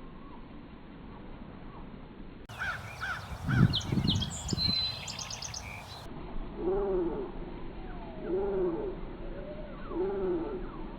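Bird calls slowed down so they sound low and animal-like, a series of arching drawn-out calls repeating about every second and a half in the second half. Before them comes a short stretch of higher, quicker chirping with a low rumble.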